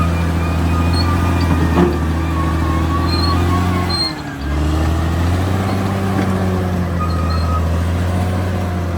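Caterpillar D6R XL crawler bulldozer's diesel engine running steadily under load, dipping briefly and recovering about four seconds in, with intermittent high squeaks over the drone and a single sharp knock about two seconds in.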